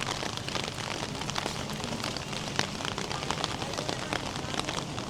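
Rain falling and hitting hard surfaces, a steady hiss dotted with many small sharp drop hits.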